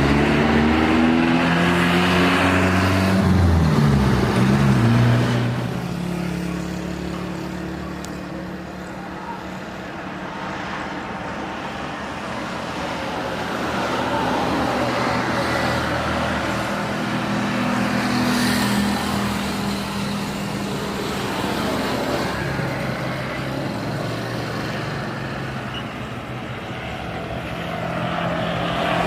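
Road vehicles passing. One goes by close in the first few seconds, its engine pitch falling as it passes, then quieter traffic noise with more vehicles swelling by.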